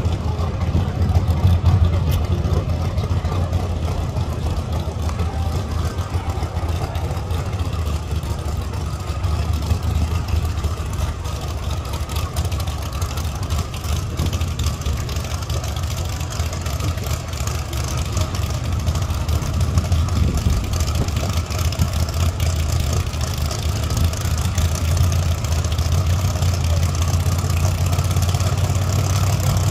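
Drag car's engine idling at the starting line: a steady low rumble with little change in pitch.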